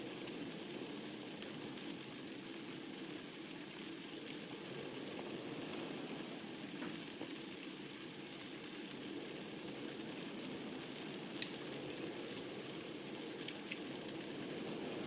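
Wood fire crackling in a fireplace: a steady low rush of flames under scattered sharp pops, with one louder pop about three-quarters of the way through.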